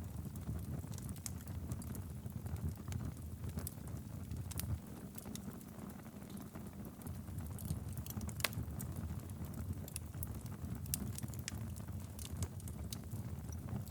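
Wood fire burning steadily in a fireplace: a low, even rumble of flame with frequent sharp crackles and pops, one louder pop about eight seconds in.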